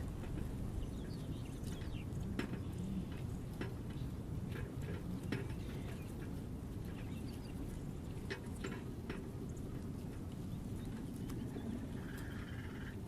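Small birds at a feeder: scattered short chirps and clicks over a steady low outdoor rumble, with a longer call near the end.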